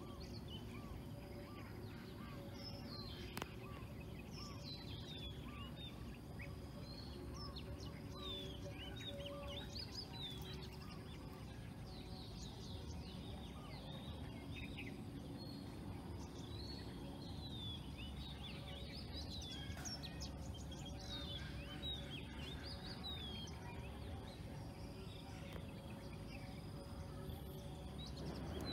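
Many small birds chirping and calling in quick, short notes over a steady outdoor background noise.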